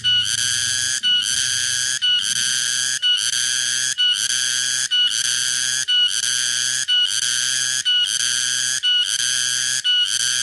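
Tonggeret cicada calling: a loud, high buzzing song repeated in phrases about a second long, each broken off by a short gap, about one phrase a second.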